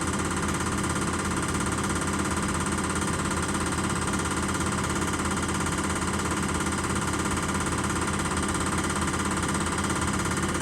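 Diesel injector test stand running steadily: its high-pressure pump holds rail pressure at about 160 MPa while a large common-rail injector fires continuously. It makes a steady, loud mechanical hum and buzz.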